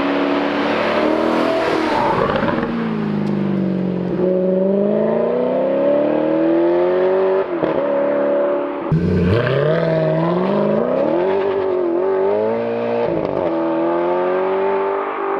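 Alfa Romeo 8C's naturally aspirated 4.7-litre V8 under acceleration. Its revs fall over the first few seconds, then climb in long pulls broken by sudden drops in pitch, as at gear changes, about halfway in and again a few times later.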